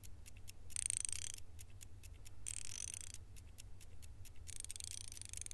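Ratcheting spanner clicking as it is turned to tighten springs, in runs of sharp clicks broken by three short scraping hisses.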